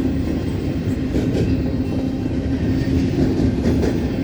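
Long intermodal freight train rolling past a crossing at speed: a steady low rumble of cars and wheels on the rails, with faint clicks over the rail joints.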